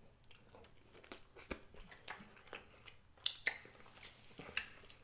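Close-miked chewing and biting of a mouthful of food, with scattered wet clicks and smacks of the mouth, the loudest about a second and a half in and just past three seconds in.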